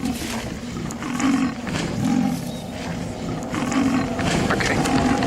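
A large animal growling and roaring in repeated bursts about a second apart, the attack sound of the story.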